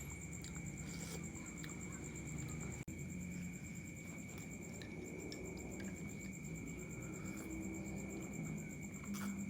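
Faint eating sounds, small scattered clicks and smacks of chewing noodles, over a steady high-pitched whine and a rapidly pulsing higher trill like insects, with a low hum beneath.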